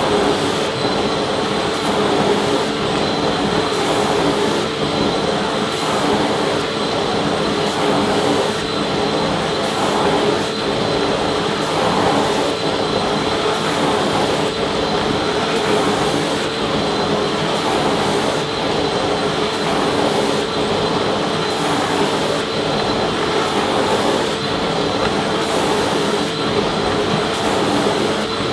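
Vacuum cleaner running steadily: a continuous rushing of air over a steady motor hum and high whine.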